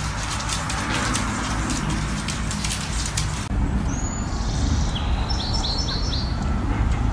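Irregular rapid clicking and crackle, then outdoor sound: a steady low rumble with a quick run of about four short high bird chirps.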